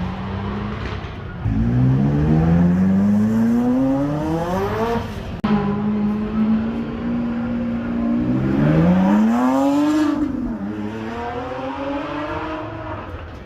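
Supercar engines accelerating hard, the note climbing steadily through the revs in long sweeps. After an abrupt cut about five seconds in, an engine holds a steady note, then climbs again, peaks and drops about ten seconds in, and climbs once more near the end.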